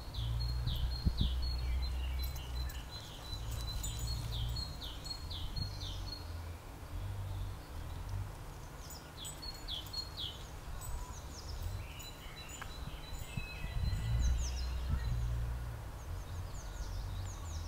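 Garden birds singing in the background: runs of quick, high, falling chirps repeated in several phrases, over a steady low rumble.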